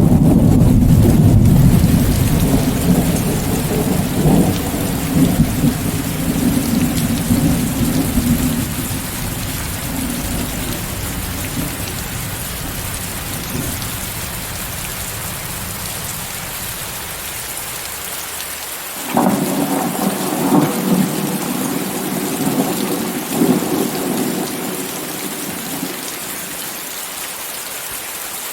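Steady heavy rain with rolling thunder: a long low rumble fades away over the first dozen seconds, then a fresh clap of thunder about two-thirds through rumbles for several seconds and dies down, leaving the rain hiss.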